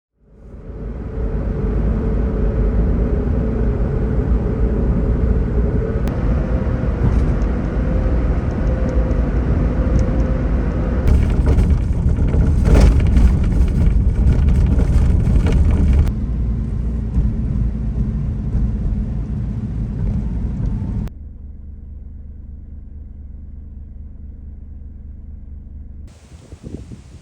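Motor vehicle running with a steady low rumble, cut into several segments that change abruptly in loudness and character about every five seconds.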